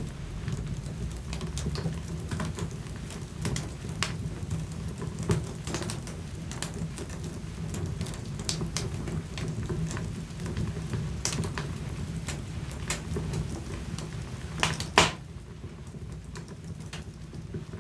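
Wood fire in a fireplace crackling, with a steady low rumble and frequent sharp pops. One loud pop comes near the end, after which the low rumble falls away.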